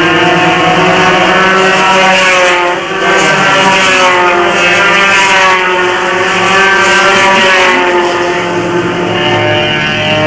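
A Honda race car's engine heard from inside the cabin, running with the car standing still and held on the throttle, its pitch drifting gently up and down, with a brief dip about three seconds in.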